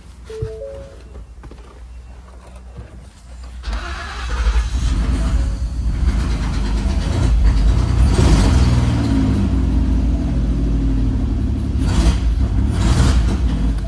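2019 Ford Explorer's 3.5-litre V6 starting about four seconds in, then running and revved once, its pitch rising and falling back.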